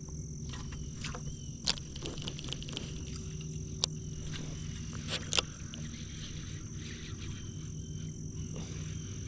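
Night insect chorus, a steady high-pitched trill, with three sharp clicks or knocks close by in the middle of it.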